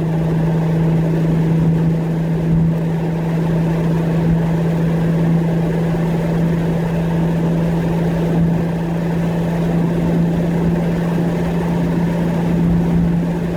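Nissan Skyline R32 GT-R's single-turbo RB26DETT straight-six pulling steadily at an even cruise, held out of boost. It makes a constant drone with no rise or fall, heard from inside the car with the windows down.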